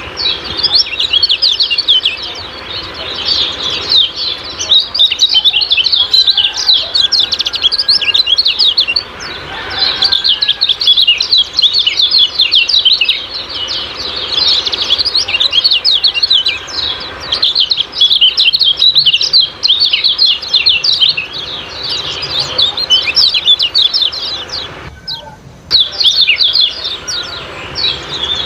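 Kecial kuning songbirds giving a dense, rapid, high-pitched 'ciak-ciak' chirping, with a brief break about 25 seconds in.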